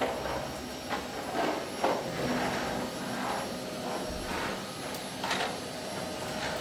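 Vacuum cleaner running with a steady whine, with brief rushes every second or so as the nozzle is worked over the floor.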